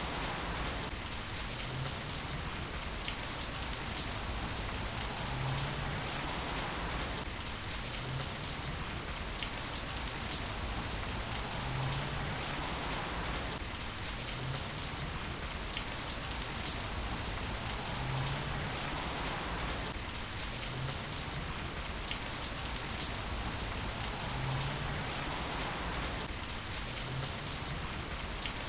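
Heavy rain falling steadily, with scattered sharper drop hits. The texture swells and repeats about every six and a half seconds.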